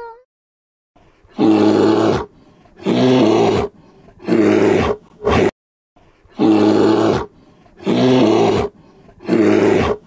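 Loud calls from a large animal, each about a second long, in a run of three long calls and a short one. The same run comes again after a brief gap.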